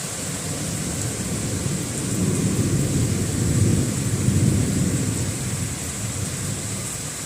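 Thunder rumbling over steady heavy rain: a low roll builds a couple of seconds in, peaks around the middle and dies away, while the rain hisses throughout.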